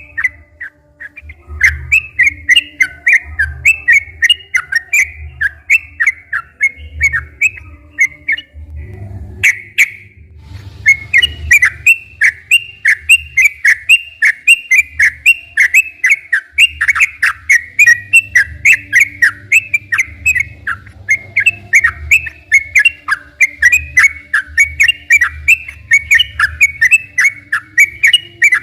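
Yellow-vented bulbul (trucukan) singing a long, rapid run of chattering, whistled notes, breaking off briefly about nine seconds in before carrying on.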